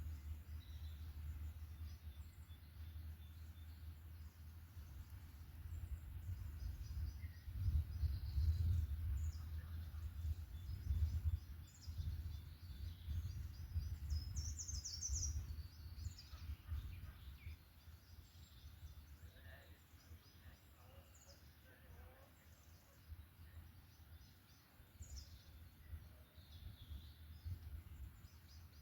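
Scattered songbird calls and chirps in a forest, with one brighter, busier phrase about halfway through, over a low rumble that swells and fades and is loudest early on.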